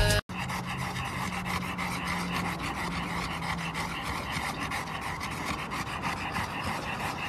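Two bully-type dogs panting steadily.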